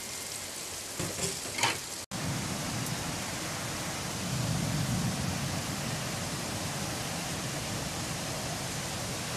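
Heavy rain pouring steadily in a windy storm, with a few sharp taps about a second in. The sound breaks off for an instant about two seconds in, then the steady rain continues with a low rumble of wind for a few seconds.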